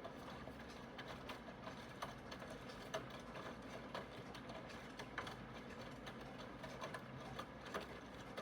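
Aidoo 1 kg direct-drive mini washing machine running through its wash cycle: a steady low hum with irregular clicks and knocks, one or two a second.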